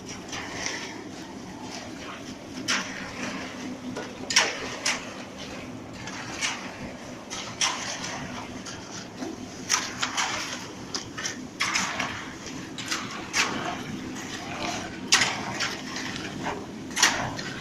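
Steady low hum of a running concrete pump, with irregular sharp scrapes and knocks over it as concrete is poured.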